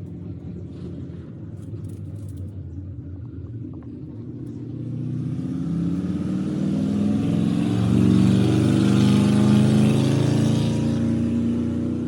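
A motor vehicle's engine growing louder as it approaches, with its pitch shifting slightly. It is loudest about eight to ten seconds in, then begins to fade.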